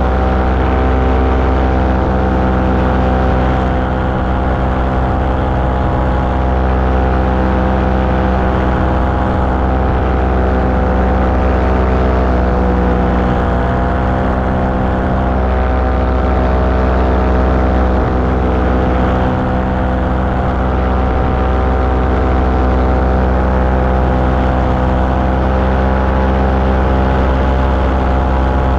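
Small aircraft engine and propeller running steadily at cruise power in flight, with a slight dip and recovery in pitch about halfway through.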